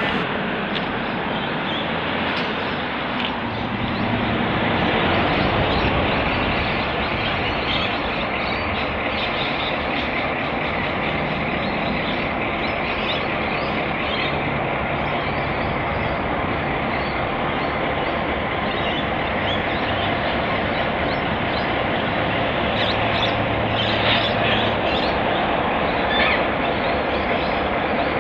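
Clyde Engineering T-class diesel-electric locomotives hauling a train during a shunt: a steady drone of engines and rolling wheels on the rails.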